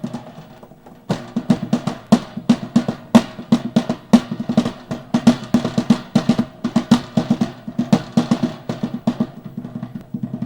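Snare-style lap cajon played by hand in a fast, busy rhythm of sharp slaps with a snare buzz; the playing gets much louder about a second in.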